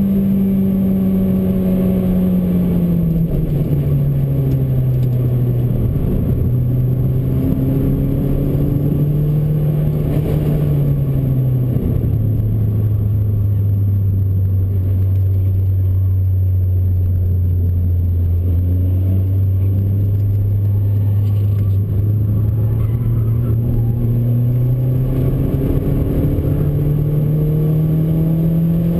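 Honda Civic Type R's K20 four-cylinder engine heard from inside the cabin on track, under steady tyre and road noise. Its note drops about three seconds in and again about twelve seconds in, holds low through a corner, then rises steadily as the car accelerates out toward the end.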